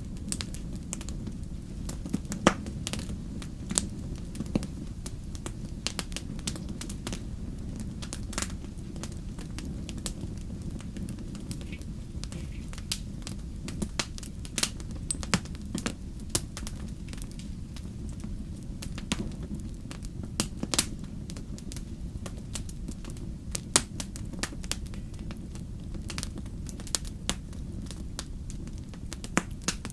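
Wood fire crackling in a fireplace: a steady low rumble of the burning fire with irregular sharp pops and snaps scattered throughout.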